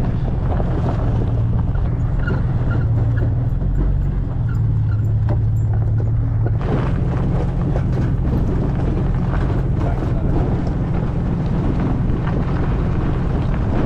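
Car engine running steadily at low revs while driving slowly over a rough dirt track, with scattered knocks and rattles from the car over the bumps.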